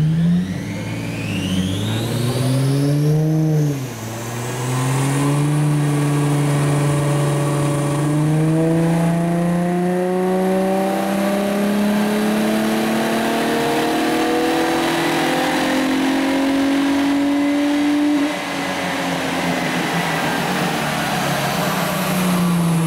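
Holden Commodore's engine on a chassis dynamometer making a power run: the revs rise and fall briefly a few seconds in, then climb slowly and steadily under load for about fourteen seconds. Then the throttle is shut and the engine and rollers wind down in pitch.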